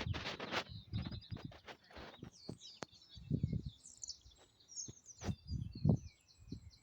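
Small birds chirping, many short high calls overlapping, with low thumps and rustling near the start and again around five to six seconds in.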